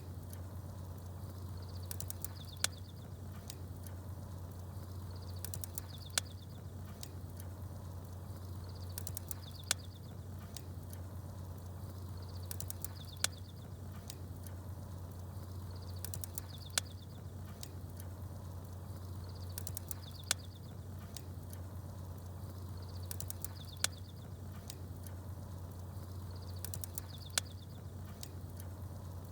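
Campfire crackling with small birds chirping, over a steady low rumble. A sharp pop comes about every three and a half seconds with the same chirps each time: a short stretch of sound repeating as a loop.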